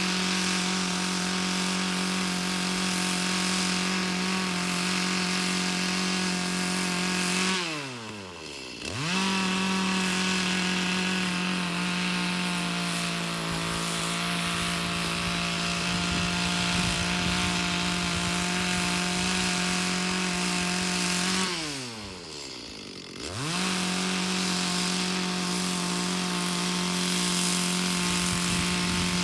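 Two-stroke chainsaw running at high revs through raw logs, its pitch sagging a little under load. Twice, about eight seconds in and again about twenty-two seconds in, the throttle drops off and the engine falls briefly toward idle before revving straight back up.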